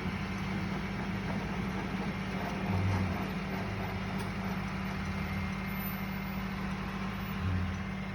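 A vehicle engine running at a steady low drone, swelling briefly about three seconds in and again near the end.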